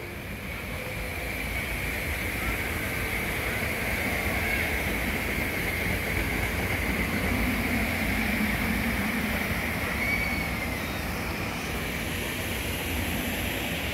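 SEPTA Regional Rail electric multiple-unit train passing: a steady rumble of wheels on rail with a thin high whine. It builds over the first few seconds and eases a little near the end.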